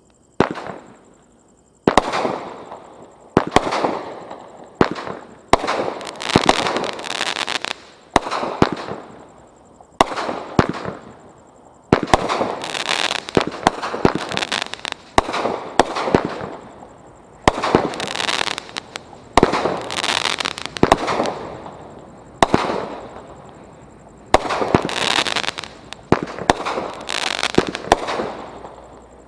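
Consumer fireworks from Brothers Pyrotechnics' Gas Money assortment going off shot after shot, a sharp report about every second or two, each trailing into a spell of bursting noise.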